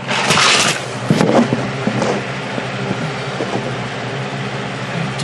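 Steady hum of an electric motor running, with a short hissing blast of air in the first moment and a knock just after a second in.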